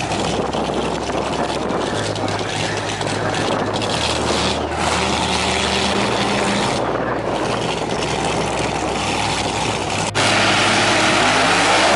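Loud, dense engine noise from cars at a drag strip, with a sudden jump in level about ten seconds in.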